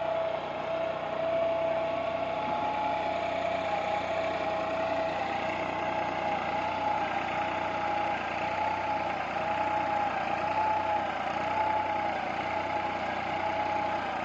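New Holland 3600 tractor's diesel engine running under load while pulling a plough. It runs steadily, and its pitch wavers up and down from about halfway through.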